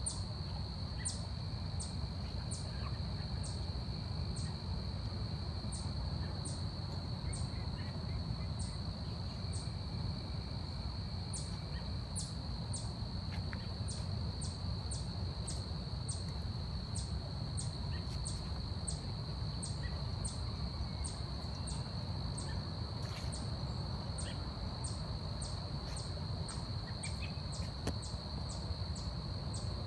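Forest insect chorus: a continuous high-pitched drone with a regular series of short, high chirps about one and a half a second over it, above a low rumble of ambient noise.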